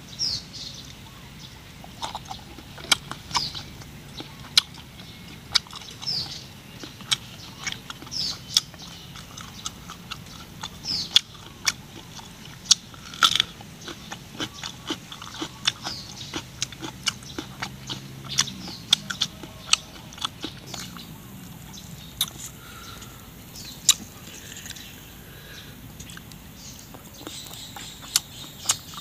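A person biting and chewing crunchy food close to the microphone, a raw cucumber among it, with many irregular sharp crunches and wet mouth clicks.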